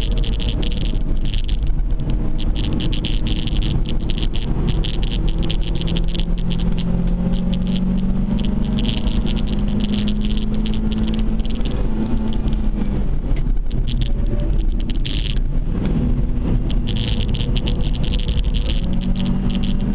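Toyota Celica engine heard from inside its cabin while lapping a circuit, revs climbing and falling back as it accelerates and lifts through the corners, with a buzzy rattle from the interior over it.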